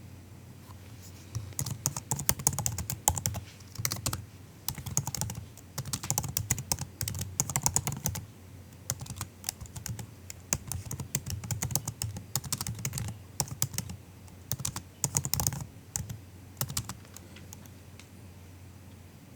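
Typing on a MacBook's low-travel laptop keyboard: soft, quick key clicks in runs of a few seconds with short pauses between them, stopping about two seconds before the end.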